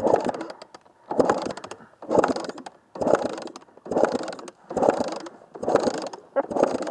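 Dirt bike's kick-starter being kicked over repeatedly, about once a second, with ratcheting mechanical clicks, turning over a two-stroke engine flooded with water to push the water out.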